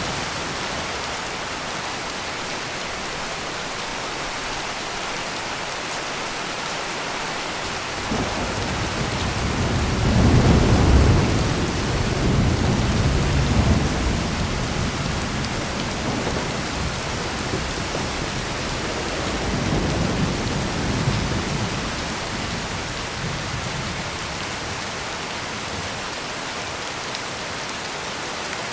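Heavy steady rain with thunder: a deep rumble starts about eight seconds in, swells to its loudest a few seconds later and rolls on, and a second, weaker rumble comes about twenty seconds in before the rain goes on alone.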